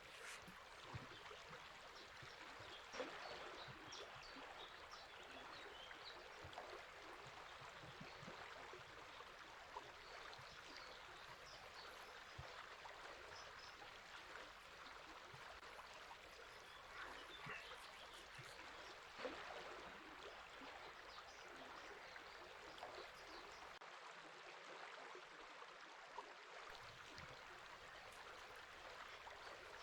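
Faint, steady babble of a river flowing over shallows, with small splashes and a few faint bird chirps now and then.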